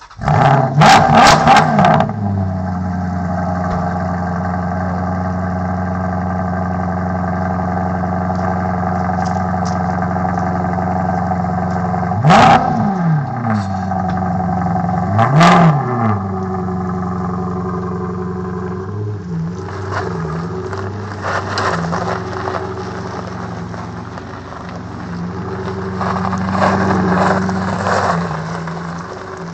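Alfa Romeo 8C Competizione's V8 starting with a loud flare of revs, then settling to a steady idle. It is blipped twice in quick rises and falls, then driven off with the revs going up and down.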